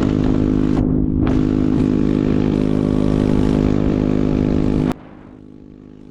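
Small vehicle engine running at a steady speed with an even drone, cutting off suddenly about five seconds in.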